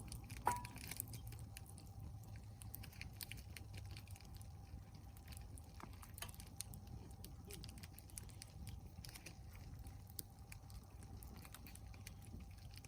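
Burning log fire crackling, with scattered small pops and one sharper pop about half a second in, over a low steady hum.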